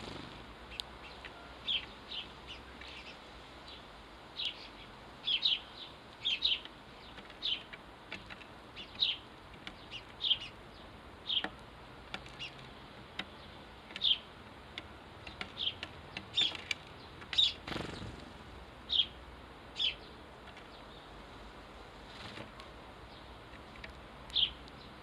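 House sparrows chirping: short, single chirps repeated irregularly, some in quick pairs, with a brief whoosh about two-thirds of the way through.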